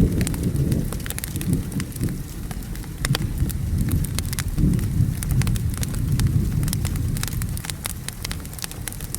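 Wood fire crackling with many sharp, irregular pops over steady rain, with a low rolling rumble of thunder swelling and fading underneath.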